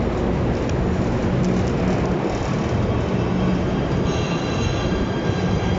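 PATH train running on the rails with a steady, loud rumble. About two-thirds of the way through, a high-pitched wheel squeal joins in, made of several thin tones above the rumble.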